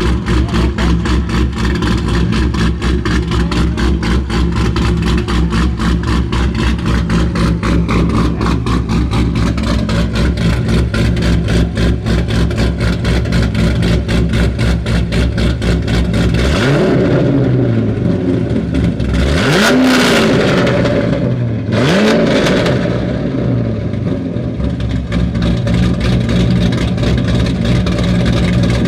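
Corvette V8 engine idling loud and choppy, then blipped with several quick throttle revs from a little past halfway, each rising and falling back before it settles to idle again.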